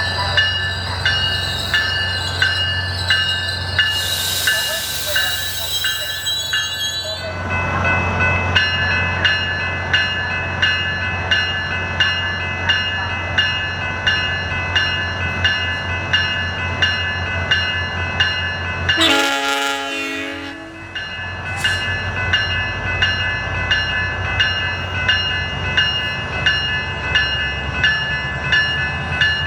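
Train at the station platform with a bell ringing steadily, about one strike every three-quarters of a second, over a low diesel rumble. A hiss of air sounds a few seconds in, and a short horn blast comes about two-thirds of the way through.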